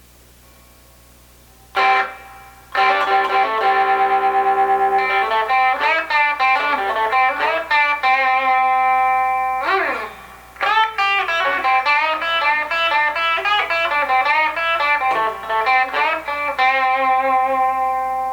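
Fender Stratocaster's bridge pickup through a little overdrive, with its added tone control fully up, playing a rock riff: after about two seconds of faint amp hum, a struck chord, a rapidly repeated chord, then a run of notes and chords, ending on a held chord that is cut off.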